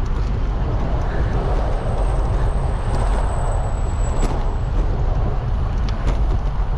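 Steady low wind rumble on a bike-mounted action camera's microphone while riding, with road traffic going by.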